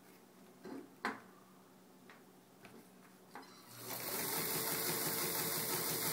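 A few light clicks, then about two-thirds of the way in a Pfaff 130 sewing machine starts up and runs steadily, stitching through leather.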